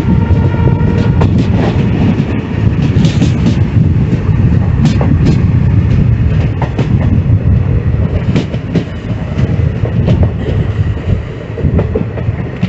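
Passenger train running: a steady low rumble of the wheels on the track, with irregular clicks and clatter over the rail joints.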